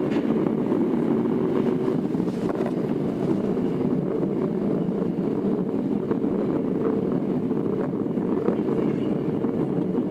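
Tokyo Metro 02 series subway car running between stations, heard from inside the car: a steady rumble of wheels and running gear on the rails, with a few faint clicks.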